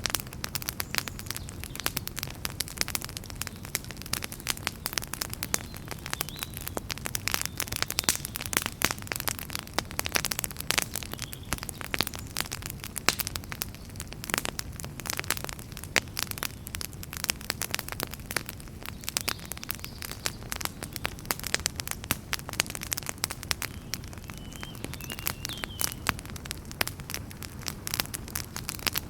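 Wood fire in a fireplace crackling, with dense irregular pops and snaps over a steady low rumble of the flames. A faint high whistle comes briefly about three quarters of the way through.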